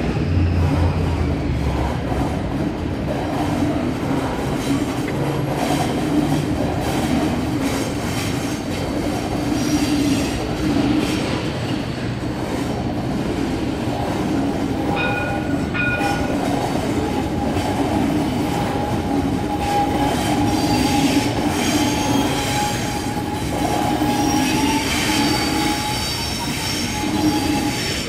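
Sydney Trains Waratah double-deck electric train passing, its wheels squealing on the rails in several steady, held tones over the running noise. Two short beeps sound about a second apart around halfway through.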